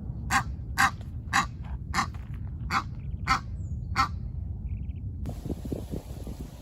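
A bird giving seven short, harsh calls, about one every half second to second, over a steady low rumble. The calls stop about four seconds in, and the background noise changes abruptly a little after five seconds.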